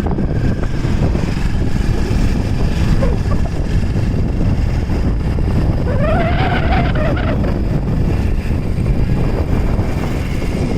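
Vehicle running with a steady low rumble. About six seconds in, a brief pitched tone rises and falls over it.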